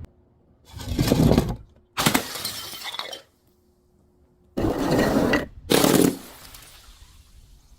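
Glass bottles being crushed and shattering: four crunching bursts that start and stop abruptly, with silent gaps between them.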